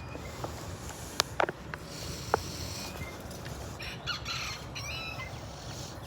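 A bird calling briefly about four seconds in, after a few light clicks.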